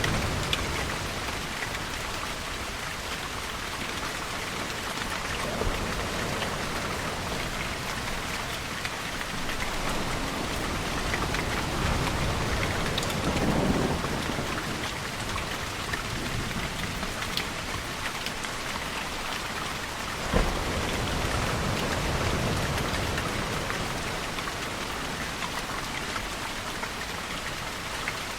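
Steady rain pattering, with distant thunder rumbling low about halfway through and a short sharp crack about two-thirds of the way in.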